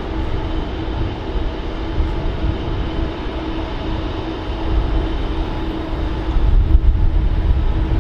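Passenger train of Intercity coaches rolling past on the tracks: a steady rumble of wheels on rail with a faint steady hum, growing louder about six and a half seconds in.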